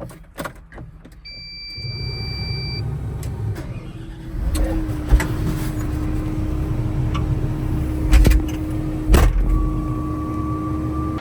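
A loader's engine is started and runs steadily, with a short electronic beep at about the moment it starts. About four and a half seconds in, a steady whine joins the engine, and a few sharp knocks come later.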